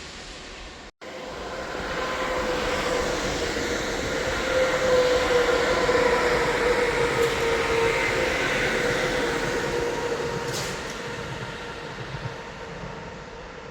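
A train passing through the station: its rumble and a steady whining tone build up over a few seconds, hold loudest in the middle, then fade away.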